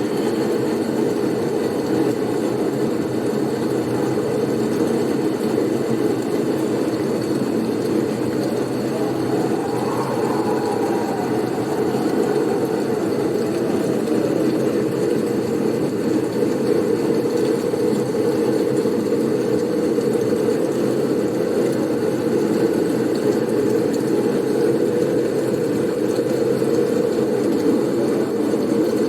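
Blizzard wind as a steady, low rushing noise, with a faint whistle that rises and falls about ten seconds in.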